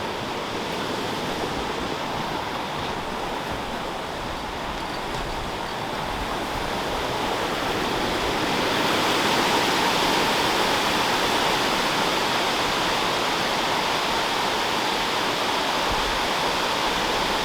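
Steady rush of Mingo Falls, a tall waterfall, growing louder and fuller about halfway through.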